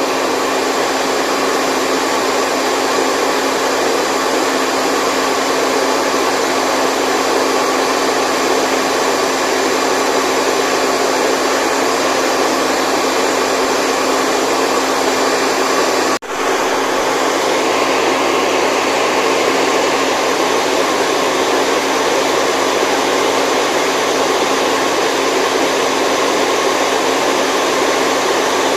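Steady white noise, an even rushing hiss with faint steady hums running through it. It cuts out for an instant about sixteen seconds in.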